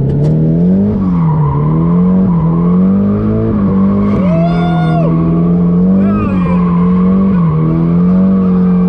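Nissan 240SX drift car engine running hard, its revs rising and falling again and again as the throttle is worked through a drift. About halfway through a high-pitched squeal or cry cuts over it for under a second, with a shorter one soon after.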